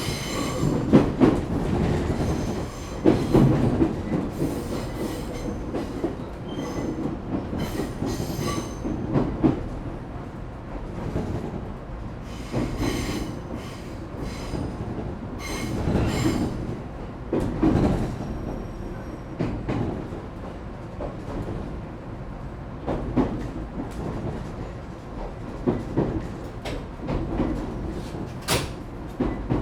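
Interior running sound of an ET127 series electric train rolling slowly into a terminus: a steady low rumble with irregular knocks as the wheels cross rail joints and points, and short bursts of wheel squeal.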